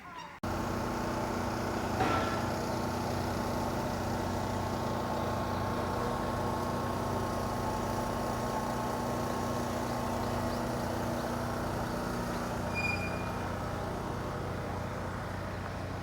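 A steady motor hum: a constant low drone with a wash of noise over it, starting abruptly about half a second in and holding level.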